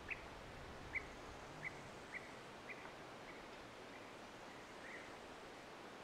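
A bird giving short, repeated chirps, about one to two a second, that fade after about three seconds, over a faint steady hiss.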